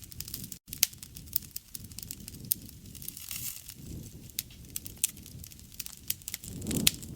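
Campfire burning: frequent sharp crackles and pops of burning wood over a low rush of flame that swells twice. The sound cuts out for an instant about half a second in.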